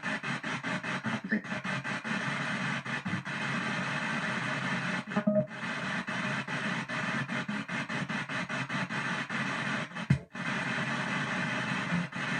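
Ghost box (spirit box) scanning through radio stations: a rapid, even chopping of static and broadcast fragments many times a second, with a couple of brief louder blips about five and ten seconds in.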